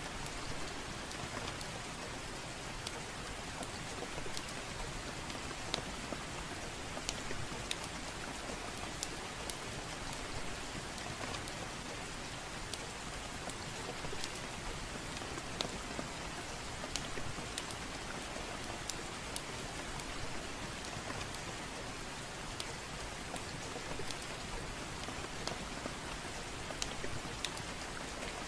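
Steady soft rain falling, a continuous even hiss, with scattered sharp clicks sounding irregularly throughout.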